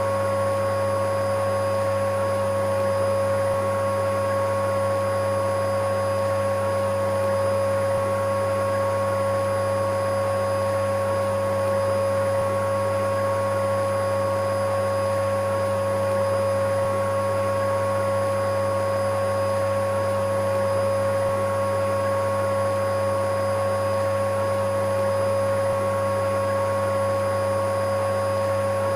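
Vacuum cleaner running steadily: an unchanging motor drone with a clear, constant whine over a low hum.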